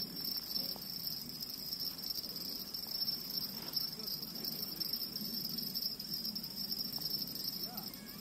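Crickets chirring in a steady, unbroken high-pitched drone.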